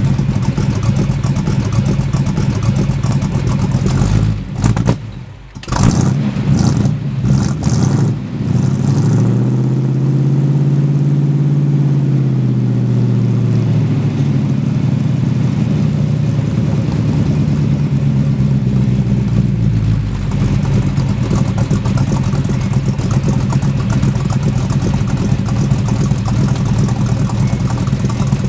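1972 Dodge Charger's 400 Magnum V8 running through its stock dual exhaust, steady at first. About four to eight seconds in the sound breaks up with brief dips and a few sharp knocks. Then the engine speed rises and falls back over some five seconds before it settles steady again.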